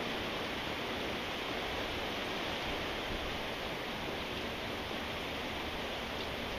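Steady rainfall: an even hiss at a constant level.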